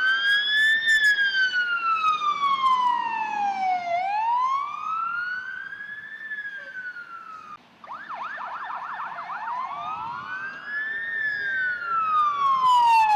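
Emergency vehicle siren on a slow wail, rising and falling every two to three seconds. About eight seconds in it cuts out briefly and switches to a rapid warble for a couple of seconds, then goes back to the wail and grows louder near the end.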